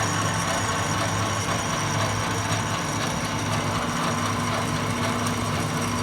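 Atlas TH54 metal lathe running steadily in reverse, with the carriage power feed engaged and backing the carriage up: a steady motor hum over the running drive.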